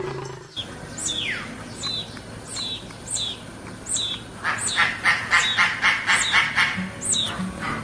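Bird calls: a string of short, high chirps sweeping downward, about two a second, with a quick run of harsher pulsed calls in the middle.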